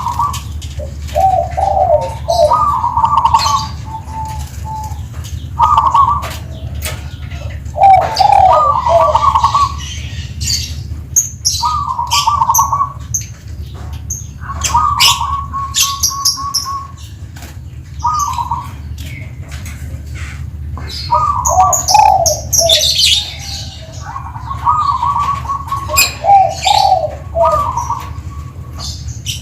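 Zebra dove (perkutut) singing its rolling coo phrases over and over, one every couple of seconds. Higher chirps of small birds come in among them, over a steady low hum.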